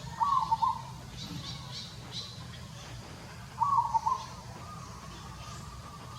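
Two short, high animal calls, about three seconds apart, over faint chirping and a low steady hum.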